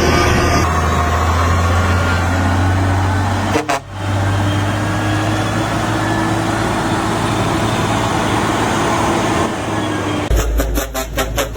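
Heavy truck engine running steadily with a deep hum, broken by a brief cut a little under four seconds in. A rhythmic, pulsing sound begins near the end.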